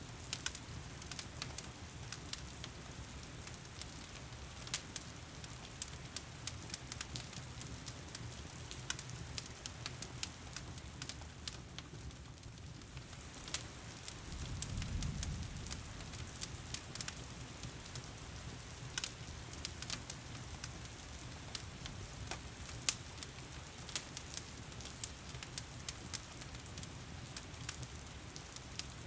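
Steady rain with a wood fire crackling over it in irregular sharp pops. About halfway through, a brief low rumble rises and fades over a second or two.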